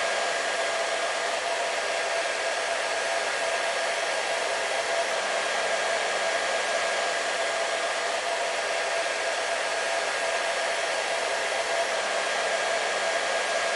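Hair dryer running steadily: an even blowing rush with a constant motor whine, unchanging throughout.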